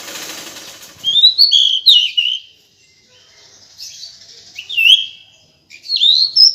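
Female pied bushchat (decu) calling in three short bursts of quick whistled, sliding notes, each a second or so long. A brief rustling hiss comes before the first burst.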